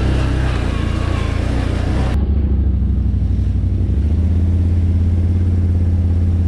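Can-Am Outlander 650 ATV's V-twin engine running steadily as it rides the trail. A high hiss over it cuts off sharply about two seconds in, and the engine note holds steady and louder from about four seconds in.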